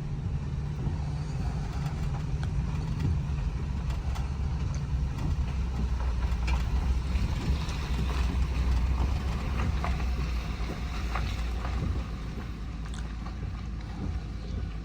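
Steady low rumble of a vehicle driving, with faint scattered ticks and rattles; it eases off a little about twelve seconds in.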